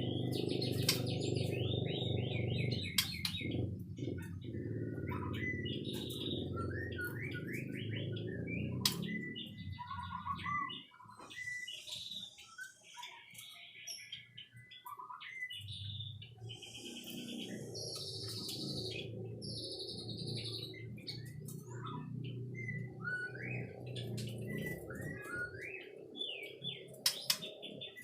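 White-rumped shama singing a long, varied song of whistles, rapid trills and chirps. A low, steady rumbling noise sits underneath, dropping out about ten seconds in and returning a few seconds later.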